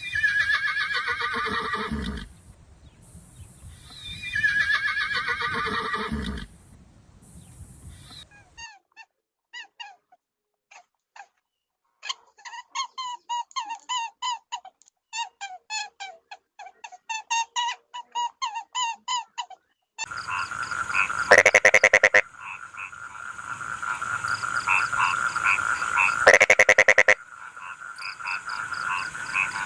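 A horse whinnying twice, each whinny about two seconds long and falling in pitch, followed by a long run of rapid short animal calls, then a steady high-pitched animal chorus with two loud bursts.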